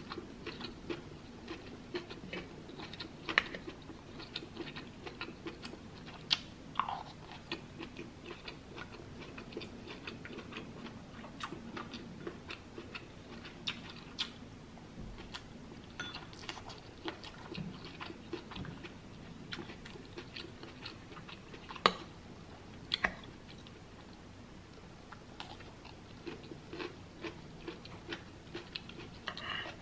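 A woman chewing mouthfuls of food close to the microphone, with wet mouth clicks and smacking throughout. A few sharper clicks stand out, twice in quick succession after about twenty seconds.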